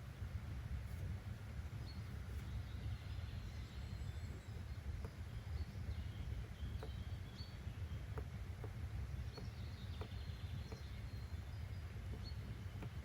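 Nature-sound ambience: a steady low rumble of noise with faint, scattered bird chirps and a few small, soft ticks.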